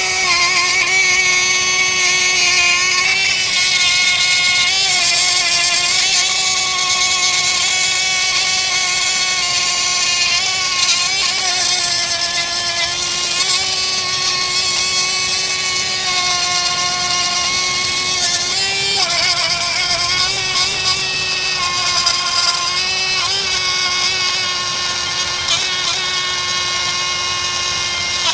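Power tool spinning a wire wheel, scrubbing old gasket residue off an aluminum valve-cover mating surface on the engine. It is a steady whine that sags slightly in pitch now and then as the wheel is pressed against the metal.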